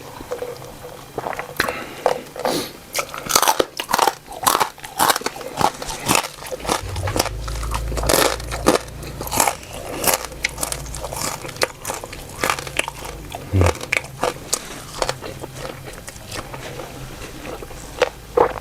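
A person chewing and crunching food close to the microphone, with many sharp crunches throughout. A low hum comes in about seven seconds in and fades out around fifteen seconds.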